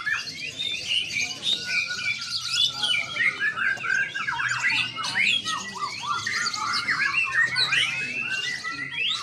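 Many caged songbirds singing at once in competition: a dense, continuous chorus of overlapping quick chirps, trills and whistles.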